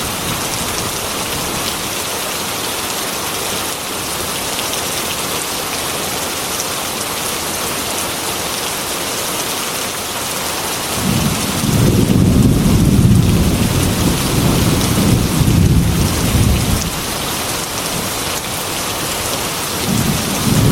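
Heavy rain beating on a glass window, a steady hiss, with a long roll of thunder rumbling from about halfway through and another starting near the end.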